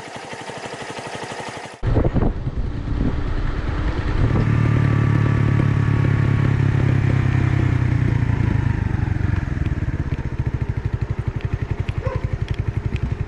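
Restored SYM Wolf motorcycle's single-cylinder four-stroke engine running, cutting in abruptly about two seconds in. It runs strongest for several seconds, then settles to a slower, even beat near the end.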